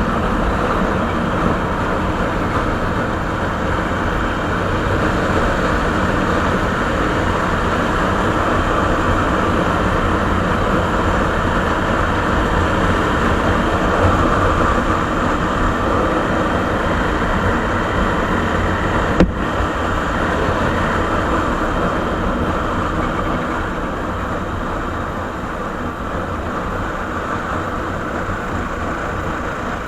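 Suzuki Savage (Boulevard S40) 650 cc single-cylinder engine running steadily through its original exhaust, with one short click about two-thirds of the way through.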